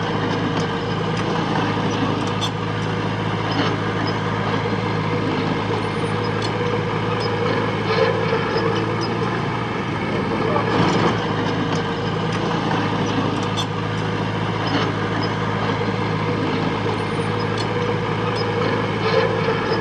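Diesel engine of heavy earthmoving machinery running steadily under work, with scattered metallic clanks and knocks.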